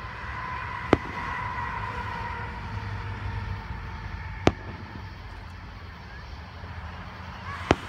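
Distant aerial firework shells bursting: three sharp bangs, about a second in, around the middle and near the end, over a steady low rumble of road traffic.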